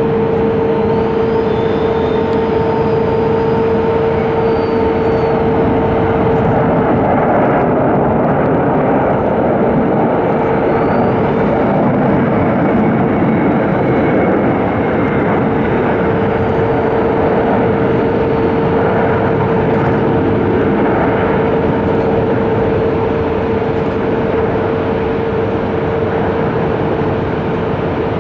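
Airbus A320 jet engines during a landing, a loud steady rush of engine noise with a steady droning tone, easing slightly near the end.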